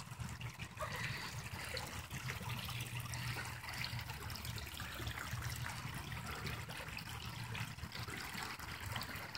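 Floodwater steadily running and trickling through a yard.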